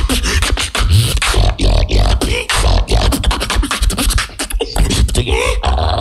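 Solo human beatboxing: a fast run of sharp, crisp vocal percussion hits over a constant deep bass, with short sliding pitched sounds in between.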